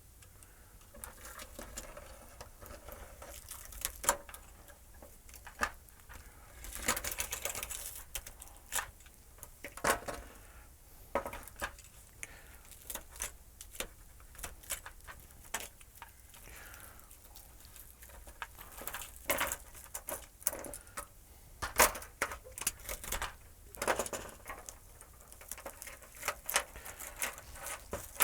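Irregular clicks, taps and light clatter with some rustling: spare LED backlight strips being handled and sorted.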